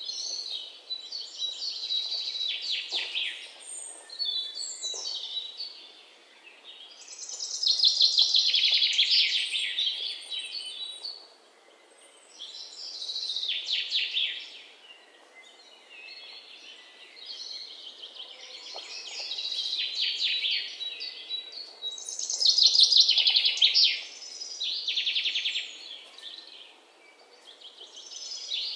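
Songbirds singing outdoors: high-pitched phrases of rapid chirping notes, about five or six songs a few seconds apart, over a faint background hiss.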